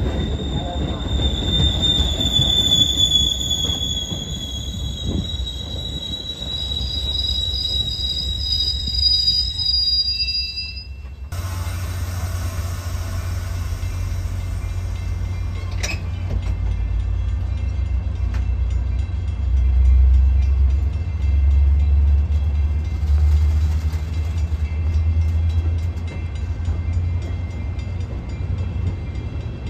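Train rolling by with its steel wheels squealing on the rails in long, high-pitched, slowly gliding tones over a rumble. About eleven seconds in the sound cuts off suddenly to a steady low rumble.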